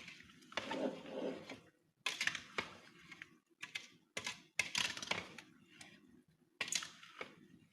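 A kitchen utensil clicking and scraping against a bowl in a run of irregular clicks, as sugar is mixed into the salad.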